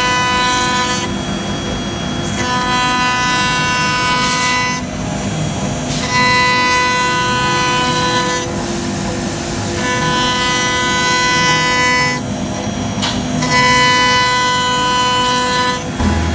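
CNC router engraving wood: a pitched motor whine that switches on and off every second or two as the machine moves between cuts, over a steady hum.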